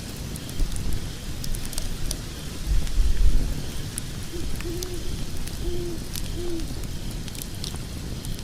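Logs burning in a fireplace: a low steady rumble of the flames with frequent sharp crackles and pops, swelling louder about three seconds in. Around the middle come three short low hoots.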